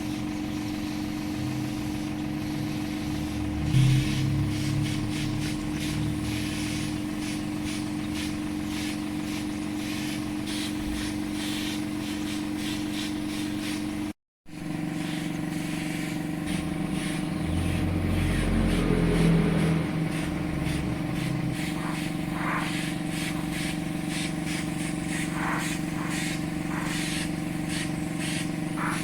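A machine running with a steady low hum. It breaks off for a moment about halfway through, then carries on.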